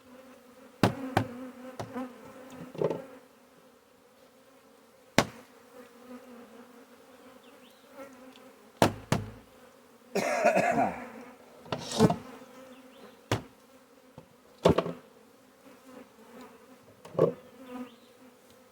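Honey bee swarm humming steadily, with scattered sharp knocks and a scraping creak about ten seconds in as the wooden hive box and frames are handled.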